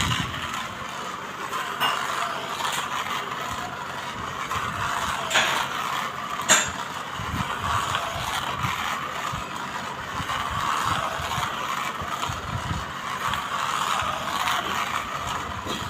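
Motorised toy high-speed train running, its small motor and gears whirring steadily, with a couple of sharp clicks about five and six and a half seconds in.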